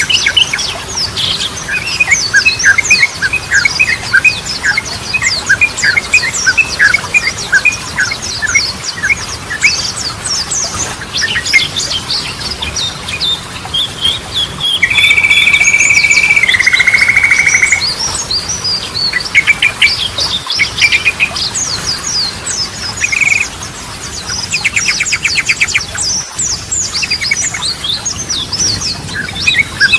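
Yellow-vented bulbuls singing and chattering: dense quick chirps and short whistled phrases. About halfway through comes a loud held whistle that steps down in pitch, and later a fast rattling trill.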